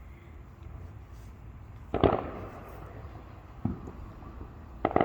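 Fireworks going off outdoors: a loud bang with a fading tail about two seconds in, a smaller bang about a second and a half later, and two quick bangs close together near the end.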